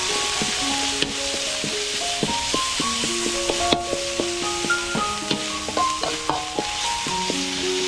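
Food sizzling in a hot pan while being stirred, with a spatula clicking and scraping against the pan at irregular moments. Background music with a simple melody plays throughout.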